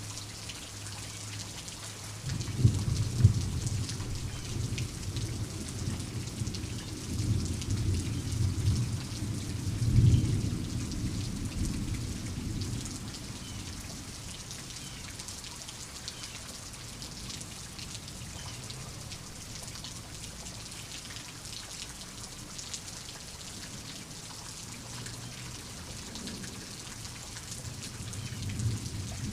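Steady rain falling with thunder. A low thunder roll starts about two seconds in with two sharp peaks, rumbles on for around ten seconds and fades; another roll builds near the end.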